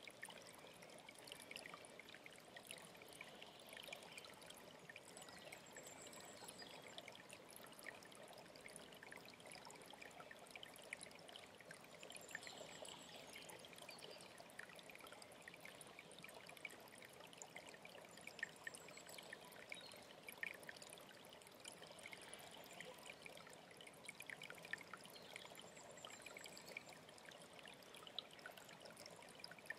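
Faint alpine stream trickling and splashing over stones, with a high, thin bird call repeating every few seconds.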